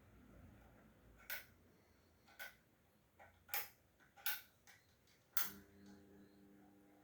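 Sharp, irregular mechanical clicks from a Valaire 36-inch ceiling fan and its speed control. About five and a half seconds in, a louder click is followed by a steady electric motor hum that keeps going.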